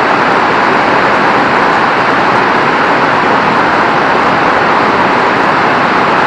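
Very heavy rain pouring down in a steady, loud hiss.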